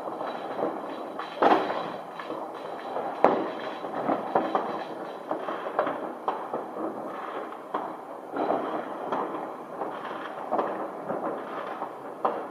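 New Year's fireworks going off in many places at once: an unbroken run of irregular bangs and crackling from rockets and firecrackers, with the sharpest bangs about one and a half and three seconds in.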